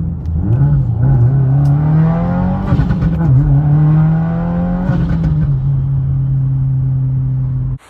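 Subaru VB WRX's turbocharged 2.4-litre flat-four engine revving, its pitch climbing twice with a short drop between, then settling to a steady drone that cuts off suddenly near the end.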